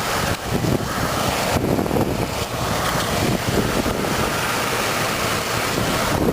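Wind buffeting the microphone: a steady rushing roar with a few brief dips.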